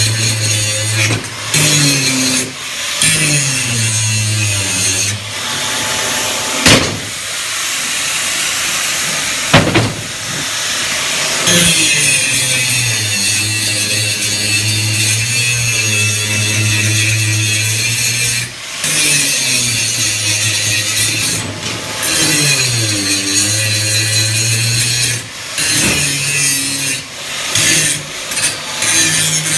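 Angle grinder dressing steel weld seams: a continuous grinding hiss over the motor's hum, its pitch dipping and recovering several times as the disc bears on the metal. Two sharp knocks about a third of the way in.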